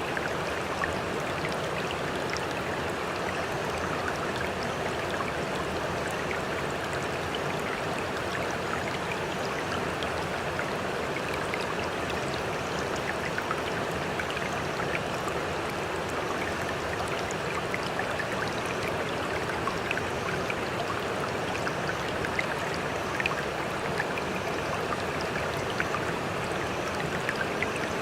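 Sea water making a steady, even rush with scattered small splashes and drips, without distinct rising and falling wave surges.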